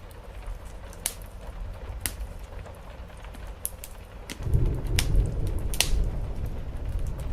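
Wood fire crackling, with sharp pops about once a second, over a low rumble that grows louder about four and a half seconds in.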